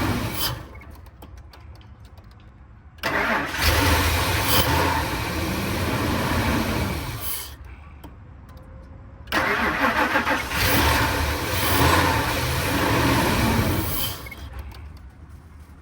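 Ford 5.4-liter V8 cranked twice on fuel poured into the throttle body, firing for a few seconds each time before dying out, with the end of an earlier attempt in the first half-second. It runs only on the poured-in fuel, perhaps too much of it, which shows the crank-no-start is a fuel-supply problem with no fuel pressure.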